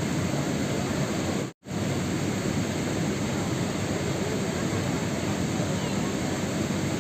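Steady rain, a dense even hiss with a deep rumble underneath. About one and a half seconds in, it cuts out completely for a moment and comes straight back, like the join of a looped recording.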